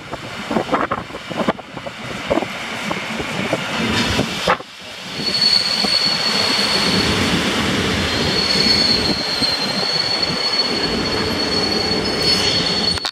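EN57AL electric multiple unit running along the platform and braking. Rumble with a few knocks at first, then from about five seconds in a steady high squeal as the train slows, which cuts off suddenly at the end.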